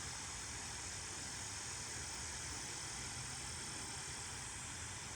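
Steady hum of a honeybee colony around an open hive.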